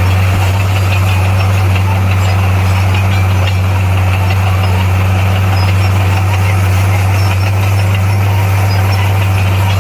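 Heavy diesel engine of an earth-moving machine running at a steady speed, a constant low drone with no change in pitch.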